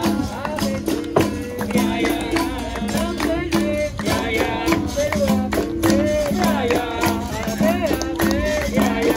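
Live capoeira roda music: berimbau with its caxixi rattle and hand percussion keeping a steady, repeating rhythm under group singing.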